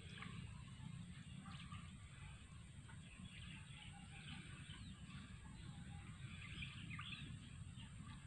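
Faint outdoor ambience with scattered short bird chirps over a low steady background rumble.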